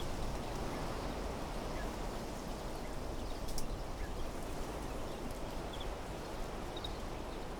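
Steady wind blowing through desert trees and shrubs, with a few faint, brief bird chirps and a single sharp tick about three and a half seconds in.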